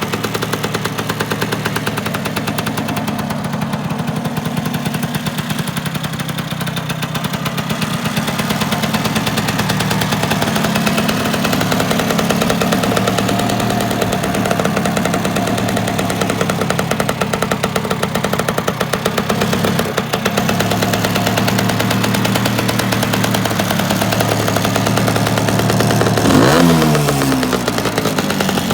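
Lambretta GP's 200cc single-cylinder two-stroke engine idling steadily through a JL3 exhaust, with one quick blip of the throttle, revs sweeping up, a couple of seconds before the end.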